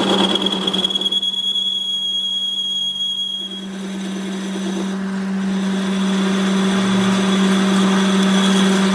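Shop machinery running steadily with a low hum and a high whine. The whine and the surrounding noise drop away for a couple of seconds, about a second in, then the machine sound builds back up.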